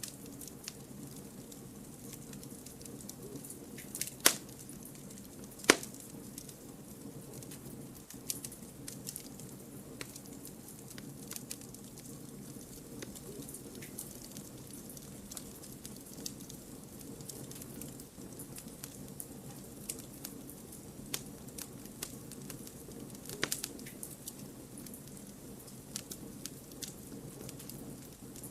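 Firewood burning in a campfire: a steady low rush of flames with frequent small crackles. Two sharp, loud pops come about four and six seconds in, and another well after the middle.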